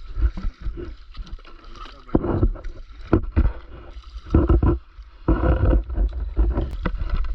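Raft paddles splashing and dipping in river water, in irregular bursts over a steady low rumble.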